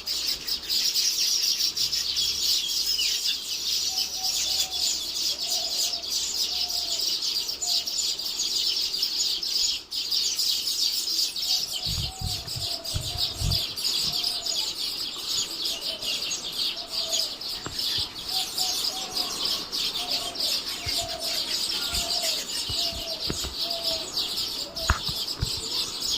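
Birds calling outdoors: a dense, high chirping chorus runs throughout. Over it comes a series of short, low, hooting notes, about two a second, around four to eight seconds in and again from about twelve seconds to near the end. A few low thumps sound around twelve to fourteen seconds in.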